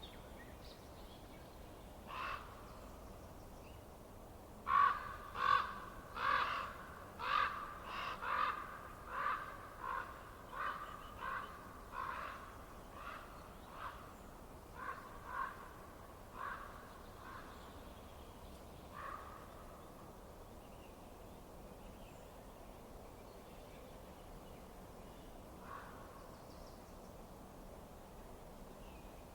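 A bird calling in a long series of short calls, about one or two a second. They are loudest early in the run and grow fainter, stopping about two-thirds of the way through, with one last call near the end.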